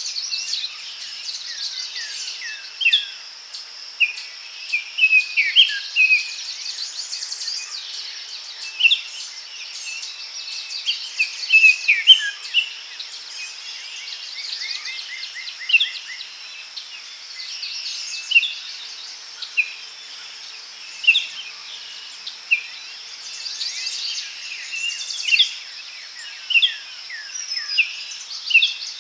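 Daytime forest ambience: many birds chirping and calling in short notes over a steady high buzz of insects.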